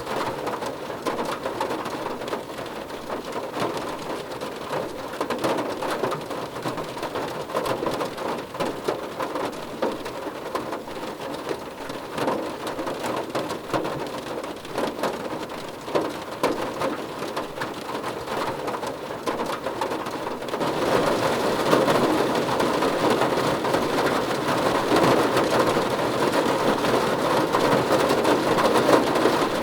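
Rain drumming steadily on a car roof: a dense patter of drops that gets heavier and louder about two-thirds of the way through.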